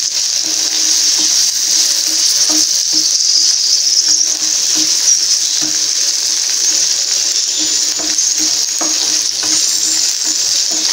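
Whole shallots and garlic cloves sizzling steadily in hot sesame oil in a non-stick pan while a wooden spatula stirs them, with light knocks and scrapes of the spatula against the pan. The onions and garlic are being sautéed until golden brown.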